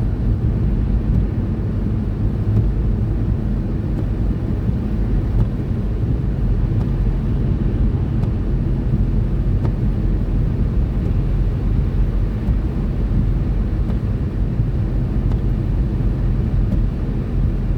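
Steady low rumble of road and engine noise inside a car cruising on a snowy motorway.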